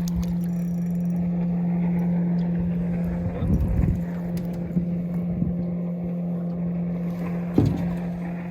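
Boat's outboard motor running at a steady speed, a constant hum with a couple of brief splashy bumps over it.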